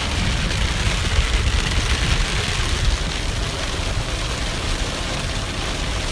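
Steady rain falling, with a constant low vehicle rumble underneath.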